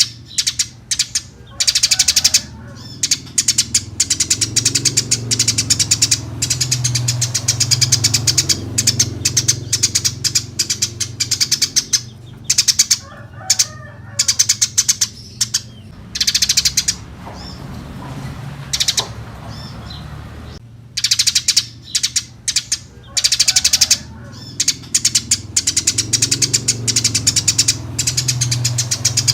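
Eurasian tree sparrows chirping loudly, a fast, dense stream of short chirps that comes in runs broken by brief pauses every second or few. A steady low hum runs underneath.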